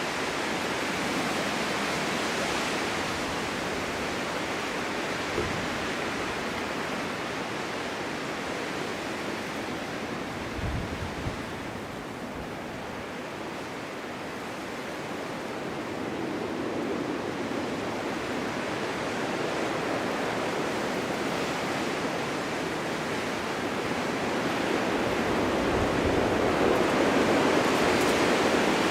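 Winter wind blowing in gusts, a steady rushing that eases off about halfway and builds again louder near the end, with a couple of brief low buffets.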